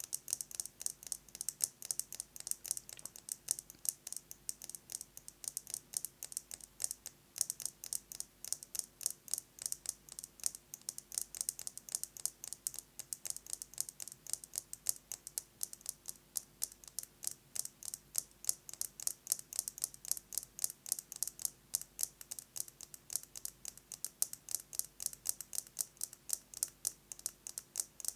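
Fingernails tapping fast on a metal lipstick case: a continuous stream of sharp, bright clicks, several a second.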